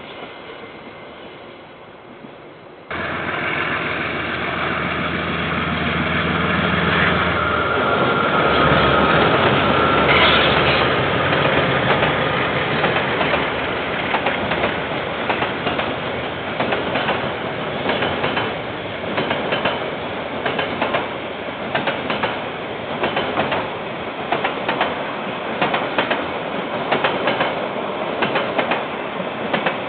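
A diesel-hauled KiwiRail train passing close by. The sound starts abruptly about three seconds in. The locomotive's engine runs low for the first few seconds, then the wagons roll past with a steady, regular clickety-clack of wheels over the rail joints.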